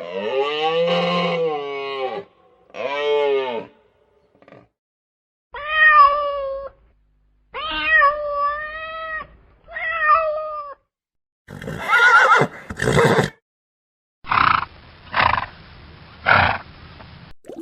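A sequence of separate recorded animal calls. First come five drawn-out pitched calls, each rising and falling in pitch. Then, about 12 seconds in, two short harsh blasts, and three short pulses near the end.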